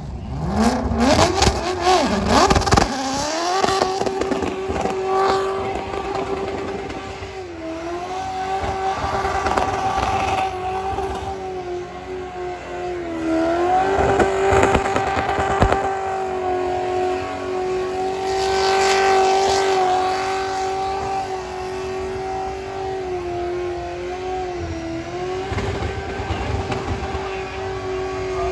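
Ford Maverick's engine revving hard in a burnout. It climbs in quick revs, then holds a steady high pitch at high rpm, dipping briefly a few times, over the hiss of spinning tyres.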